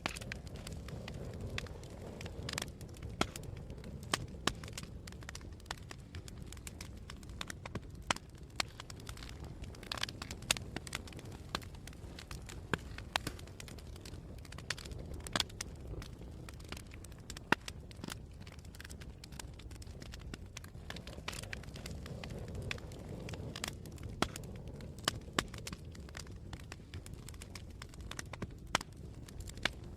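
Campfire burning, crackling with irregular sharp pops and snaps, a few of them much louder, over a steady low rumble.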